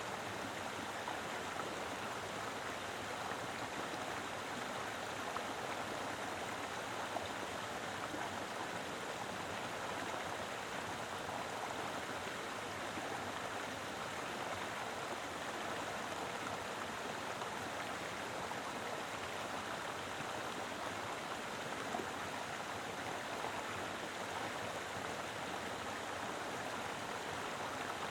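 Mountain river flowing: a steady, even rush of water over rocks, with no change in level.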